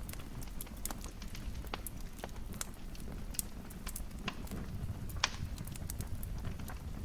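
Wood fire in a fireplace crackling: irregular sharp pops and snaps over a low, steady rumble, with one louder pop a little past five seconds in.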